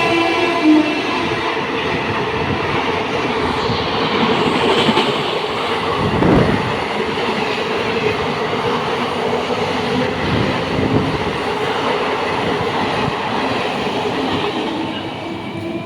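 Express train running along the track, its coaches' wheels clattering over the rails in a steady rumble, with the tail of its horn dying away within the first second.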